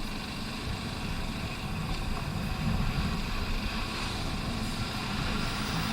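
Honda Hornet 160R's single-cylinder engine running at a steady pace while riding, with a low, even road and wind rumble.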